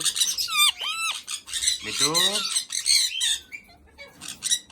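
Pet parrots squawking and giving shrill whistled calls, with a voice saying "beto" about two seconds in. The calls quieten near the end.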